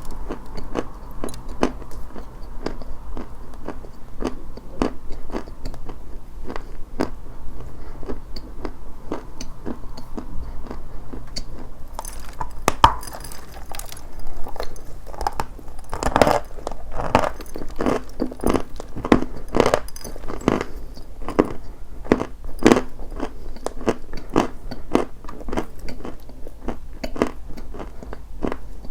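Dry white chalk being bitten and chewed: a dense run of small crunches that grow louder about halfway through.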